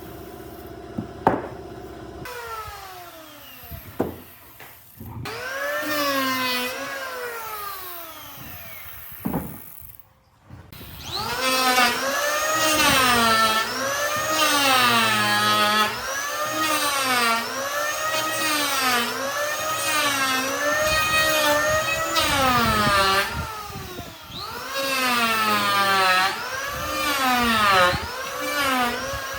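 A power tool's motor working wood, its pitch dipping and recovering about once a second as it is pushed into the wood in repeated strokes. There are a few sharp knocks in the first part, before the steady work begins about ten seconds in.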